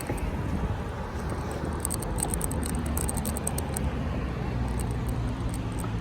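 Riding noise picked up by a camera on a bicycle mount: a steady low rumble of road and wind, with light rattling clicks from the mount and bike, thickest from about two to three and a half seconds in.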